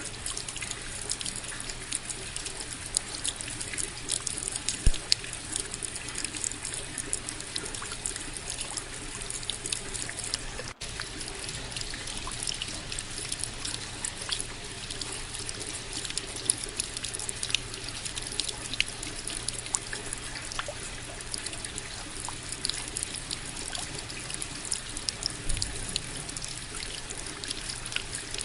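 Steady rain: an even hiss with many sharp, separate drop ticks close by and a trickling of running water. There is a momentary break in the sound about eleven seconds in.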